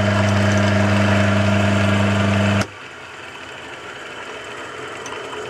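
Clarke CL430 metalworking lathe, set up as a mill, running a high-speed-steel dovetail cutter through a mild steel block: a steady motor hum with cutting noise over it. About halfway through, the hum cuts off suddenly and only a quieter noise is left, as the cut through one way ends.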